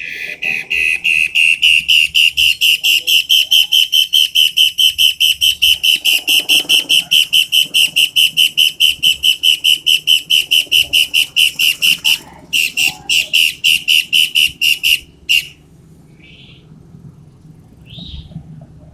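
Toed matahari songbird singing a loud, sharp run of rapidly repeated notes, about four a second, for about twelve seconds. After a short break it takes up the same notes for about three more seconds and stops, then gives a couple of faint short calls.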